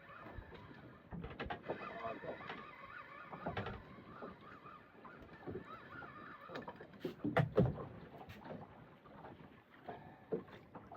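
Knocks and handling sounds aboard a small fishing boat, loudest as a cluster of sharp knocks about seven seconds in.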